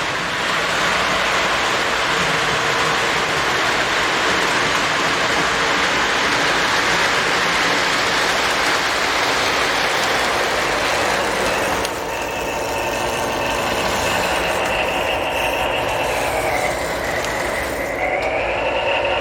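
Lionel postwar O-scale Santa Fe model train running on the track with a steady rumble and rattle. About twelve seconds in the rush eases and a motor whine comes through, dipping in pitch and then rising again.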